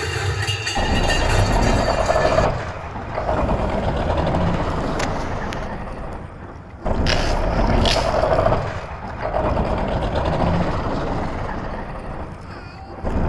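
Rough, steady engine-like vehicle rumble that swells and fades in three long stretches, with a few sharp clicks.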